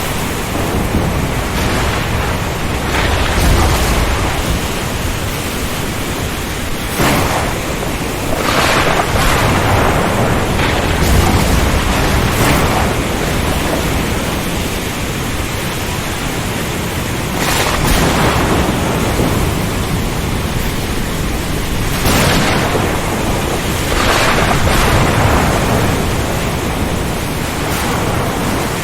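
Ocean storm: a steady noise of heavy rain, wind and sea, with a louder surge every few seconds and low rumbles of thunder.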